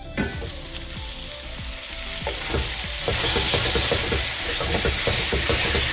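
Thick onion-tomato masala sizzling in a nonstick kadai as it is stirred and scraped with a wooden spatula, with many small knocks of the spatula on the pan. A sharper knock just after the start, as the lid comes off. The sizzle grows louder from about halfway through.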